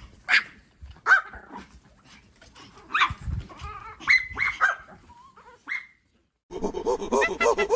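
A dog gives short, high-pitched yips and barks, about half a dozen, spaced irregularly. Near the end a different animal cuts in with a fast, dense run of repeated honking calls.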